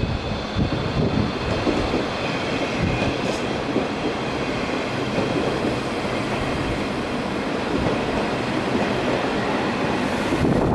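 Zentralbahn metre-gauge train running on the track: a steady rumble of wheels on rail, with a faint steady high whine over it.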